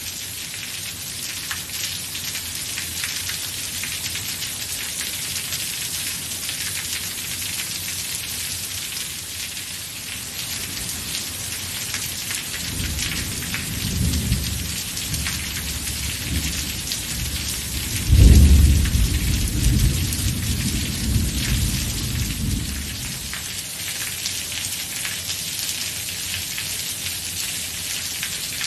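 Steady rain falling, with a roll of thunder rising about halfway through, cracking loudest a few seconds later and rumbling away.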